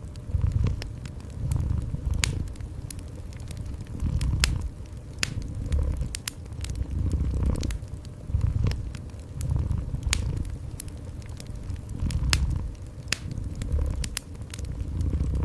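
A cat purring, a low rumble that swells and fades every second or two with its breathing, over a fireplace fire crackling with frequent sharp pops.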